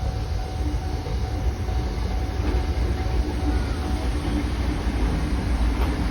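Chichibu Railway electric train running on the line: a steady low rumble with a faint, even hum over it.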